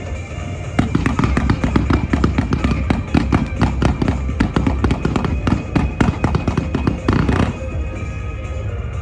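Fireworks going off in a rapid, dense barrage of bangs and crackles from about a second in until near the end, with music playing underneath.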